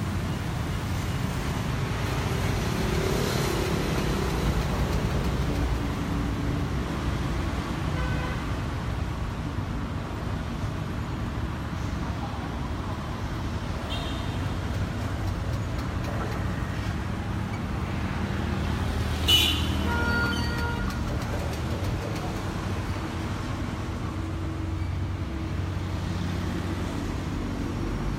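Road traffic noise: cars running and passing steadily, with one short sharp sound about two-thirds of the way through.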